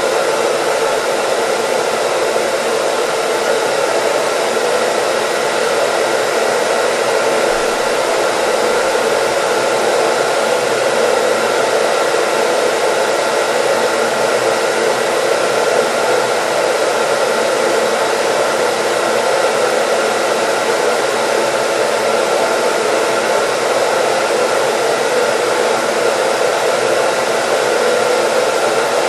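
Hair dryer running steadily: an even rush of blowing air with faint steady whining tones from the motor.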